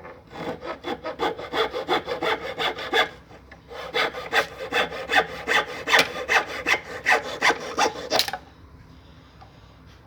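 Hacksaw cutting through wood in quick back-and-forth strokes, about three a second. The sawing runs in two spells with a short break about three seconds in, and stops a little after eight seconds in.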